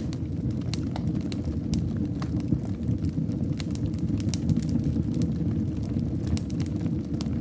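Wood fire burning in a fireplace: a steady low rumble of flames with a few sharp crackles and pops a second.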